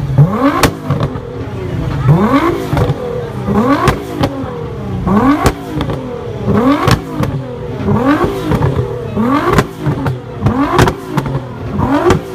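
A car engine revved over and over, the throttle blipped about every second and a bit, each rev rising quickly in pitch and then dropping back, with sharp clicks in between.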